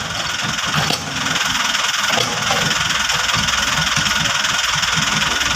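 A vehicle engine idling with an even low throb, getting louder and steadier about a second in.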